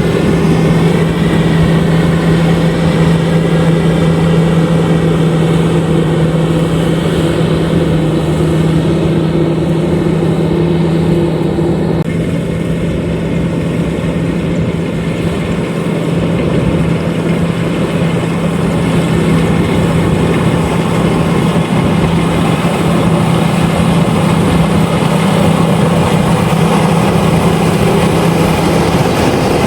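LOVOL RG130EVO rice combine harvester running steadily at working speed, a loud continuous engine drone with a strong steady hum; the tone shifts slightly about twelve seconds in.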